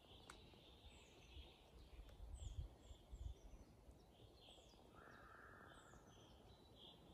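Faint forest birdsong: many short, high chirps that slide downward, repeated every half second or so among softer calls. A low rumble swells briefly around the middle.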